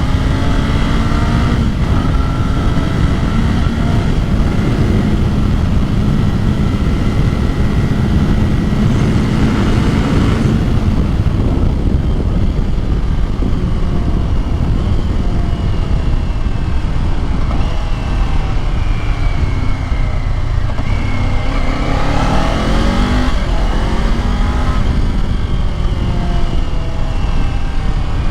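Kawasaki Ninja 500's parallel-twin engine through its stock exhaust while riding, revs climbing and dropping several times as it accelerates and shifts, with a steady stretch of cruising in between. A constant rush of wind on the microphone runs underneath.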